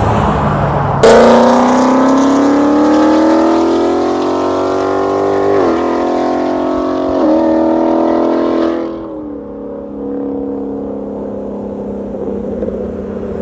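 Ford Mustang GT V8 with long-tube headers and a Borla catback exhaust accelerating hard. The note cuts in suddenly about a second in and climbs in pitch, with two upshifts in quick succession, then falls away at about nine seconds to a quieter, steady drone.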